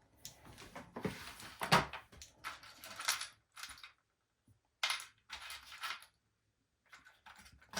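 Plastic cling wrap being handled, pulled and crinkled, in irregular crackling bursts with short pauses between them.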